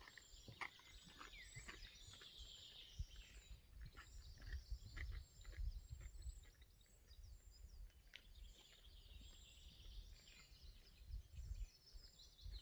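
Faint birdsong in pine woodland, many short high chirps and trills repeating throughout, over a low rumble. A few soft footsteps on the path fade away near the start.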